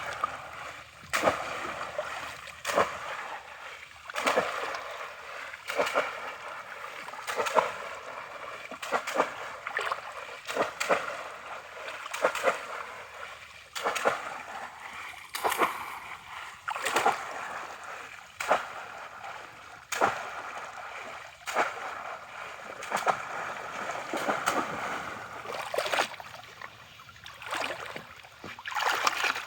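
Water splashing repeatedly, in sharp strokes roughly once a second or so.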